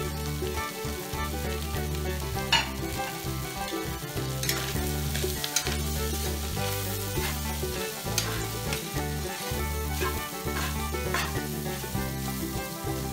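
Diced luncheon meat, potato and chicken liver sizzling in a wok, stirred with a metal spatula that scrapes and knocks against the pan several times.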